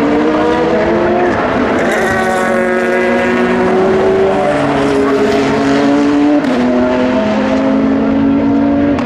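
Several race car engines at high revs together as a group of cars accelerates past, their pitches climbing. About six seconds in, one engine drops abruptly in pitch at a gear change.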